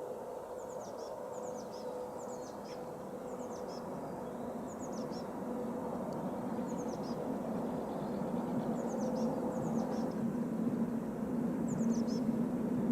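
A small songbird repeating short, quickly falling chirps in twos and threes every second or two. Under it runs a steady hum and a low rumble that grows gradually louder.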